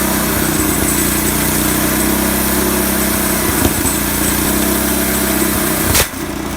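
A chainsaw engine running at a steady speed. About six seconds in there is a sharp click and the sound drops back.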